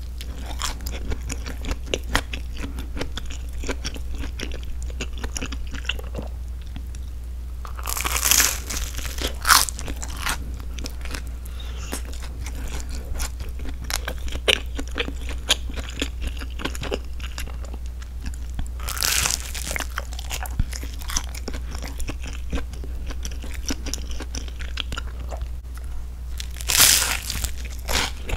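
Close-miked chewing of a grilled broccoli and cheese sandwich: crisp toasted bread crust crunching, with soft wet mouth sounds of melted cheese. Loud breathy exhales through the nose come three times, about 8, 19 and 27 seconds in.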